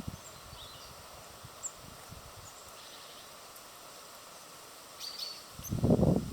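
Small birds giving faint, short, high chirps every second or so. Near the end, loud irregular low rumbling and rustling takes over.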